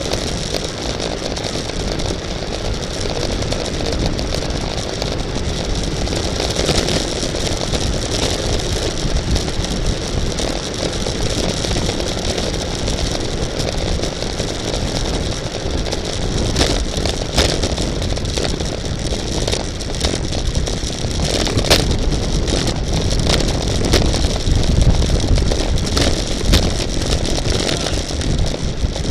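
Steady rush of wind and road noise from a racing bicycle moving at speed, with scattered sharp clicks partway through.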